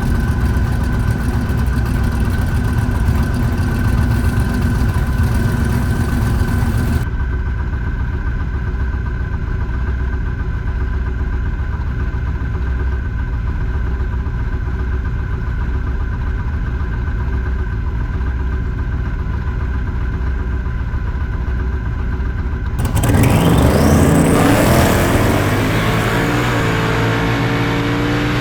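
Drag-car V8 idling steadily with a lumpy note, then about 23 seconds in it revs hard and launches, rising fast in pitch and getting louder as it pulls away.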